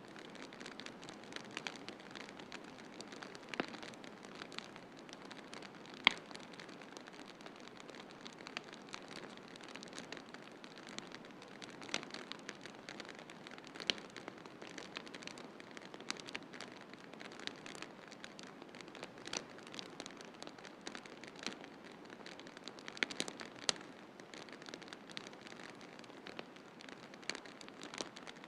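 Wood fire crackling in a fireplace: a steady hiss dotted with irregular sharp pops and snaps, the loudest about six seconds in.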